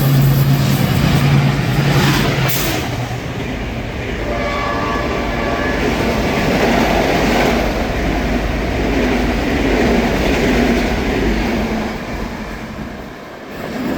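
A train passing over the rails with a steady rumble. Its horn sounds as a steady low tone for the first few seconds and again around the middle.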